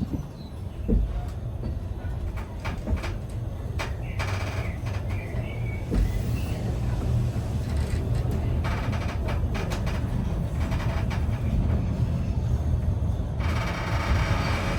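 Vintage steam train carriage rumbling low and steadily, with scattered knocks and clanks. A brighter rushing noise comes in near the end.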